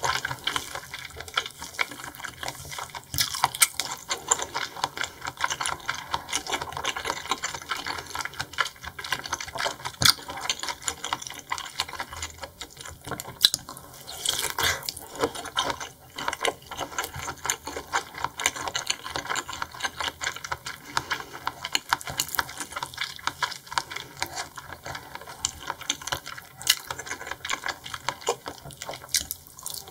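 Close-miked chewing of raw seafood: a dense, rapid run of mouth clicks and smacks.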